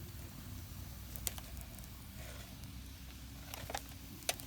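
Wood campfire crackling, with a few sharp pops from the burning firewood, the loudest near the end.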